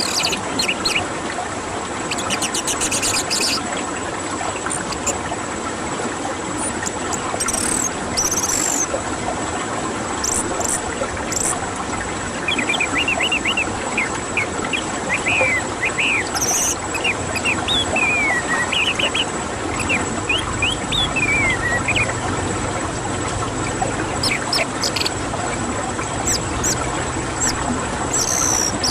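Songbirds calling over a steady hiss of background noise, with a run of quick repeated and falling song phrases in the middle and sparse high chips elsewhere.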